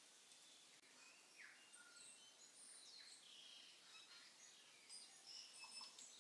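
Near silence, with faint, scattered high bird-like chirps, busier near the end.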